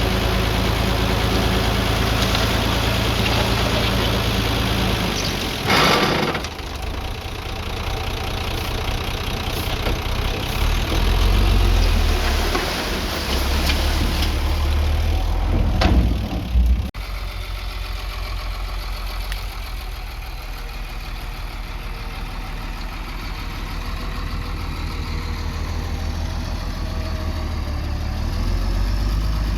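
Diesel engine of heavy earthmoving machinery running steadily, with louder noisy surges about six seconds in and again around sixteen seconds, and an abrupt drop in the sound just after.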